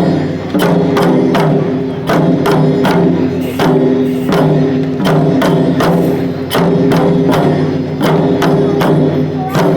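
Lion-dance festival percussion: drum strokes struck in a steady, quick rhythm under a sustained low ringing tone.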